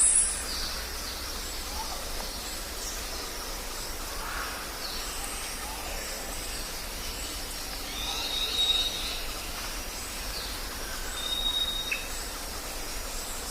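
Jungle ambience: a steady background hiss with scattered bird calls, short chirps and a few held whistled notes, several of them in the second half.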